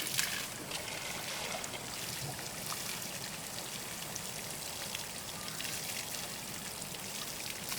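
Steady trickle of running water, with a few faint drips.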